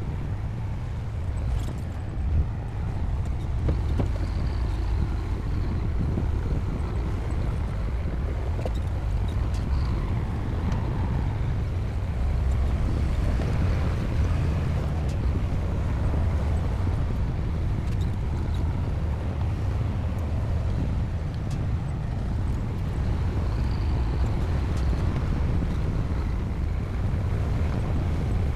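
Bulldozer's diesel engine running steadily at working revs, a continuous deep rumble.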